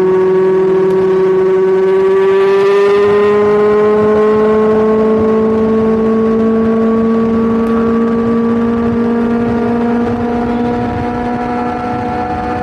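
Kawasaki Ninja 1000's inline-four engine and exhaust running under load, its note climbing slowly and steadily in pitch as the revs build in one gear.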